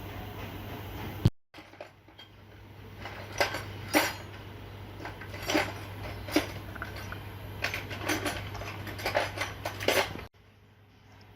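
Small metal parts and tools clicking and clinking against each other, a string of sharp irregular taps, over a steady low hum.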